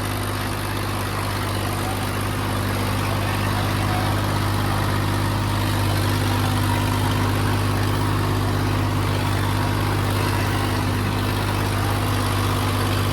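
Tractor diesel engine running steadily with a deep, even hum, getting slightly louder in the first few seconds and then holding.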